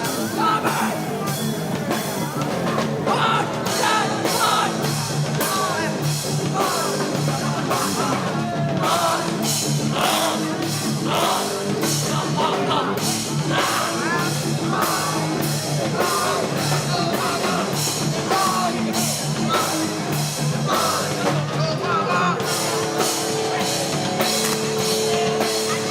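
Hardcore punk band playing live: fast, steady drumming with regular cymbal hits under distorted guitar and bass. A long held note comes in near the end.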